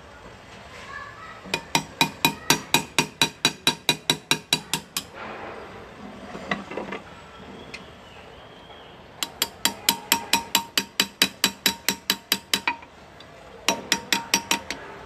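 Hand engraving: a small hammer tapping a hand graver through metal in quick, even strikes, about six a second. The taps come in three runs with short pauses between, each strike ringing briefly.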